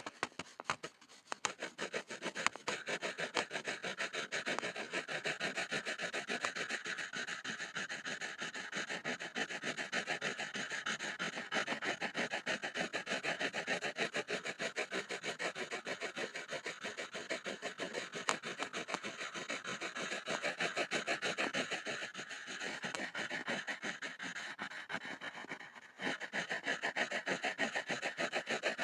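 Pencil scribbling on a board: a fast, continuous back-and-forth scratching of rapid strokes, softer for a few seconds about three-quarters through, then stronger again.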